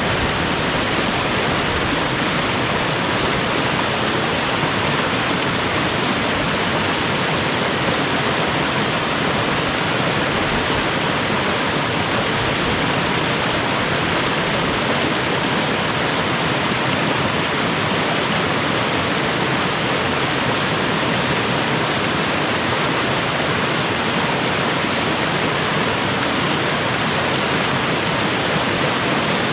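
Mountain stream water rushing steadily and unbroken.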